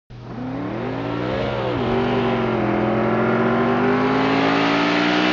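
Car engine revving: the pitch climbs, falls back about a second and a half in, then rises slowly and steadily as it pulls under load.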